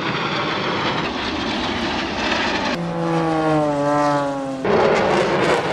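Aircraft engine noise from passing aircraft, sliced into short clips. About three seconds in, an engine tone falls steadily in pitch as a plane goes by, then cuts off abruptly into another stretch of dense engine noise.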